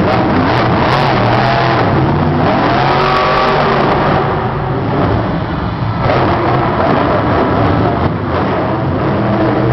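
Monster truck's supercharged V8 revving hard and loud, its pitch repeatedly climbing and falling as the throttle is worked.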